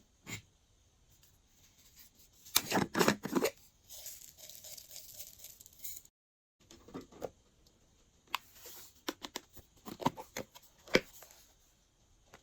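Hands squishing and stretching glossy slime: sticky crackles and pops in irregular bursts, loudest about three seconds in. It cuts briefly to silence around the middle.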